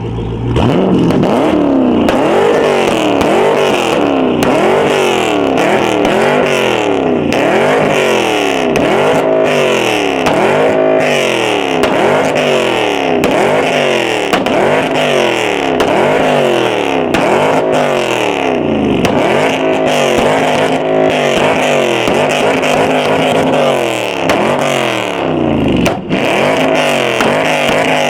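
Widebody Dodge Hellcat's supercharged 6.2-litre V8 revved hard during a burnout, the pitch climbing and falling again about once a second. Very loud.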